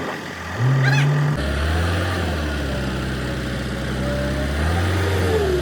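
An engine running; about half a second in it gets louder and its note shifts, then it runs on steadily.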